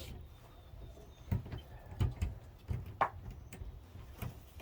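Lock picks being worked in a front door's pin-tumbler lock, making a handful of irregular clicks and light taps, the pins sticky and not setting.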